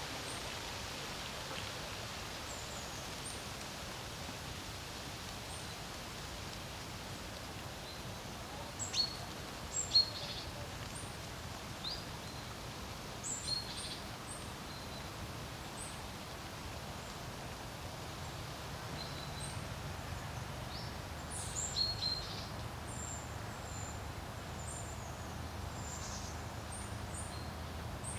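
Steady wind noise over a lake, with birds calling in short, scattered chirps and whistles, the loudest about nine to ten seconds in and again around twenty-two seconds.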